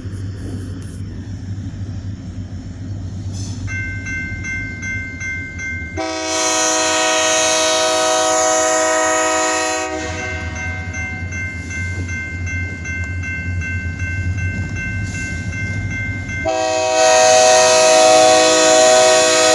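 Diesel locomotive air horn sounding two long chord blasts, the first about 6 s in lasting some four seconds, the second about 16 s in and louder. A bell rings steadily between the blasts, over the low rumble of the GP-series diesel engines.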